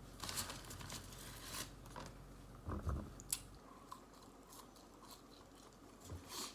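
Close-up chewing and crunching of a bite of fried chicken sandwich: irregular soft crackles and mouth sounds, busier in the first half and quieter after.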